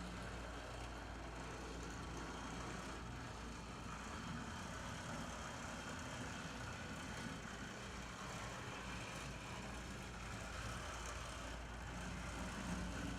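HO-scale brass model of a C30-7 diesel locomotive running on its track: the steady hum of its small electric motor and drive gears.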